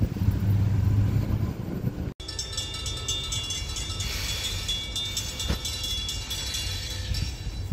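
Diesel-hauled commuter train's steady low engine drone, which breaks off abruptly about two seconds in. A quieter low rumble follows, with several steady high ringing tones.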